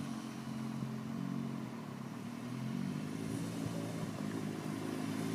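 BMW S1000RR inline-four engine running steadily at low revs as the motorcycle rolls slowly closer, getting a little louder over the second half.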